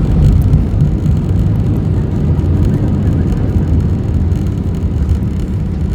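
Cabin noise of an Airbus A320-family airliner landing: a loud, steady low rumble of engines, airflow and wheels.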